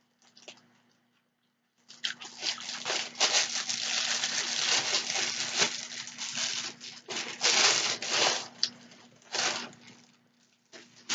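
Crinkling and rustling close to the microphone, dense and crackly for about six seconds, then a few separate crackles near the end.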